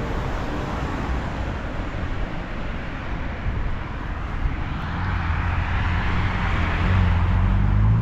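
Street traffic noise, with a vehicle drawing nearer and getting louder in the second half.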